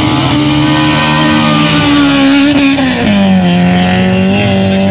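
Car engine revving hard at high rpm. The pitch holds high, drops sharply about three seconds in, then climbs again near the end.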